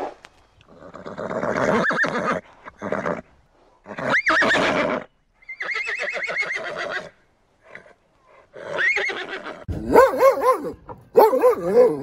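A horse neighing several times, loud whinnies with a quavering pitch. In the last two seconds a small dog barks in quick short yaps.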